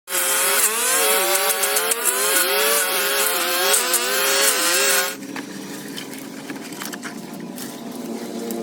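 A small engine running loud at high revs, its pitch dipping and recovering again and again as if under changing load, cutting off abruptly about five seconds in; a quieter steady tonal sound follows.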